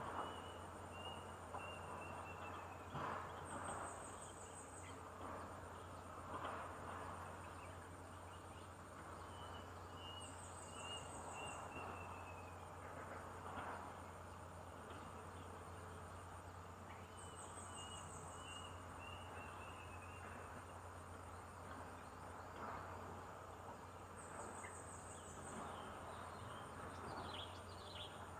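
Natural outdoor ambience: an insect's high, pulsing trill repeats about every seven seconds, alternating with a bird's short falling run of notes. Underneath are a steady low hum and a few soft rustles.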